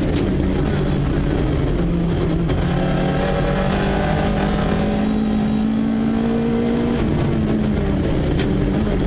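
Rally car engine heard from inside the cabin, running hard under load. Its pitch climbs slowly for several seconds, then drops suddenly about seven seconds in. Two short sharp clicks come near the start and near the end.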